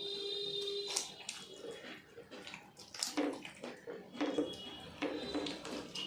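Eating sounds: biryani mixed and eaten by hand from plates, with wet chewing and smacking, and light clicks and clinks of plate and cutlery. A brief steady whistle-like tone sounds during the first second.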